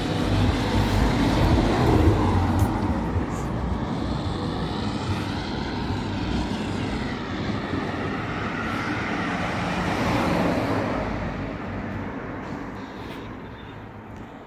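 A passing vehicle: a steady engine and rumble noise that swells, holds, and then fades away over the last few seconds.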